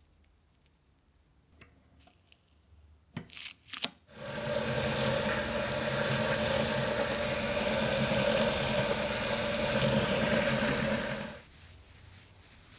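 Two brief scrapes, then a small electric power tool runs steadily for about seven seconds and stops.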